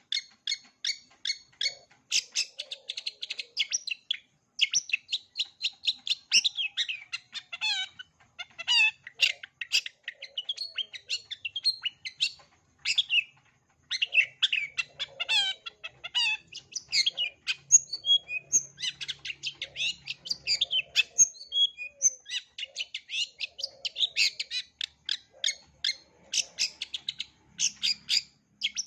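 Long-tailed shrike (cendet) singing a continuous, varied song of rapid sharp chattering notes, packed with mimicked phrases of other birds, broken by a few brief pauses.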